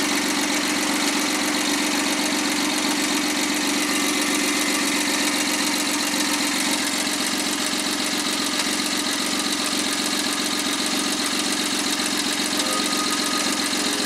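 Overhauled Suzuki K6A three-cylinder turbo engine idling steadily on a post-overhaul test run.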